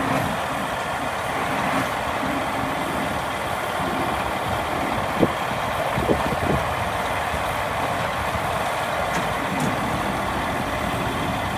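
Scania R480 crane truck's diesel engine idling steadily, with a few short clicks about halfway through.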